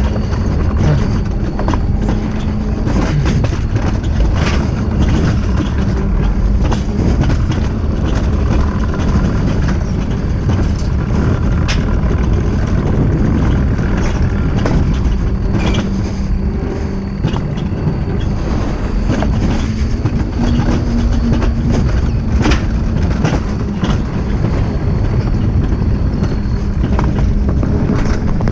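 Steady low rumble of a moving vehicle, with scattered clicks and rattles.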